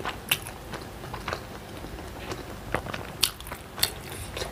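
A person chewing food close to a lapel microphone, with several sharp mouth clicks, the loudest about a third of a second in and twice between three and four seconds in.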